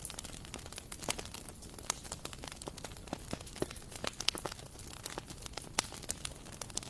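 Bonfire crackling: burning wood snapping and popping in quick, irregular clicks over a low, steady rumble of the fire.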